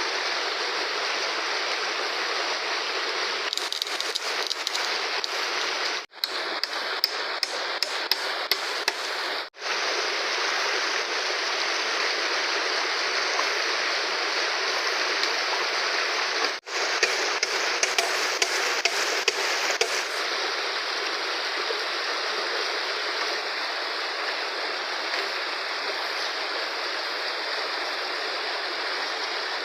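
Fast-flowing river water rushing steadily. Two spells of sharp, repeated knocks, a few a second, come about four seconds in and again about two-thirds of the way through.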